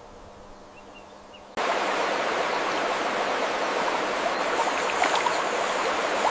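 Faint hiss with a low hum and two tiny chirps. About a second and a half in, a steady rush of running water cuts in abruptly and carries on evenly.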